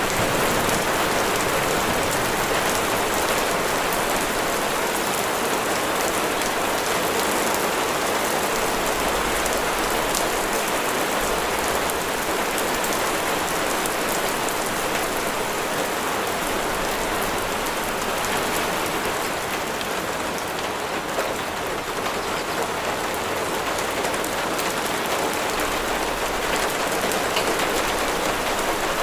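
Steady heavy rain falling on a surface, a dense even hiss of many drops with no let-up.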